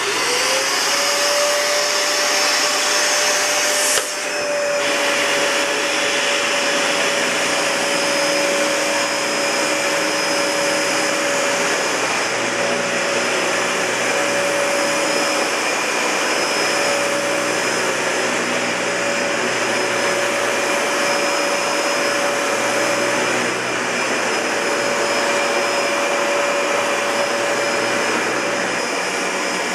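Dyson Ball Multi-Floor (UP13) bagless upright vacuum cleaner switched on: its motor spins up within half a second to a steady high whine over a rush of air, then runs steadily. A sharp click about four seconds in.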